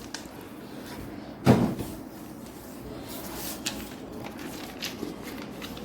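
A sheet of paper being folded and creased by hand: one dull thump about a second and a half in, as the paper is pressed down on a hard surface, then a few faint crinkles and ticks.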